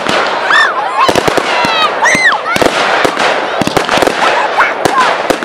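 Fireworks display going off in a dense, rapid run of crackles and bangs. Several high calls that rise and fall in pitch sound over it.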